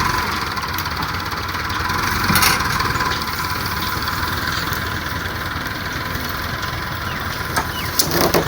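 Tractor engine running steadily, with a brief swell about two and a half seconds in and a few sharp clicks near the end.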